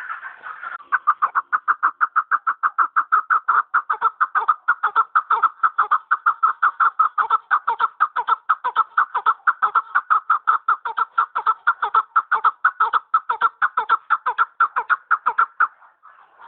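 Chukar partridge calling: a long, fast run of clucking "chuk-chuk" notes, about four to five a second, starting about a second in and breaking off shortly before the end.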